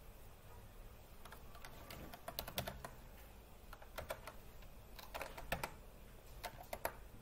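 Computer keyboard typing in a few short bursts of key clicks, with pauses between them.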